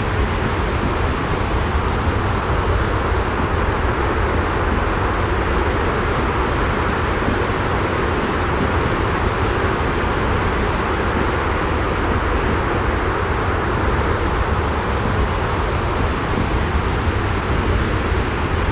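Steady, unchanging rushing white noise with a deep low rumble, an ambient sleep-noise track.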